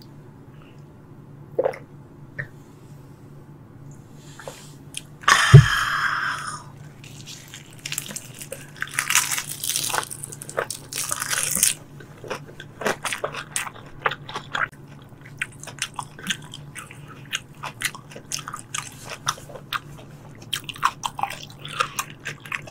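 Close-miked eating sounds: a mouthful of raw tuna sashimi being chewed, with many small wet clicks and smacks through the second half. About five seconds in there is a single heavy thump with a brief burst of noise, and around nine to eleven seconds a few seconds of hissing noise.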